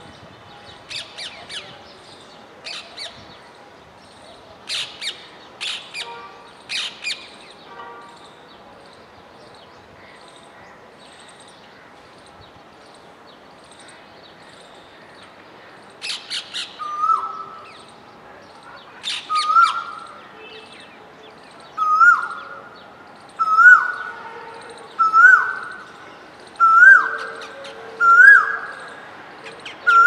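Birds calling: a few short, harsh screeches in the first several seconds, then from about halfway a loud call repeated about every second and a half, climbing in pitch and getting louder with each repeat.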